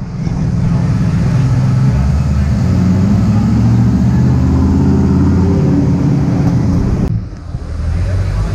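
Car engines at low speed in an undercover car park: a white Nissan Patrol four-wheel drive's engine runs low and steady as it drives slowly past close by. About seven seconds in the sound cuts off suddenly, and then a Jeep Grand Cherokee Trackhawk's supercharged V8 runs as it rolls up.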